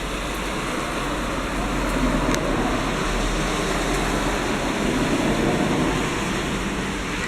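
Heavy fall of pea-size hail, a dense, steady hiss of hailstones pelting down that grows a little louder in the middle.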